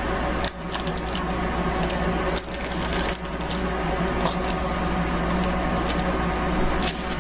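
Parchment paper crinkling and crackling irregularly as it is handled and pressed into place, over a steady low hum.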